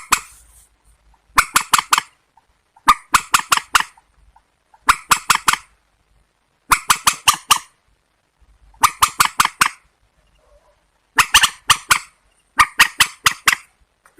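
Harsh, rapid calls of a rail, the swamphen or waterhen of the title's bird-call recording. They come in bursts of about five quick notes, repeated every second and a half or so with short pauses between.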